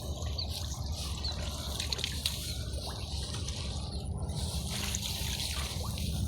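Shallow water sloshing and trickling as it is waded through and stirred, over a low steady rumble.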